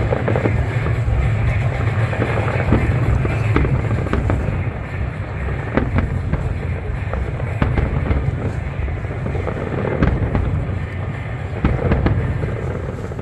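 Aerial fireworks going off in quick succession, a dense run of sharp bangs and crackles, with music playing along.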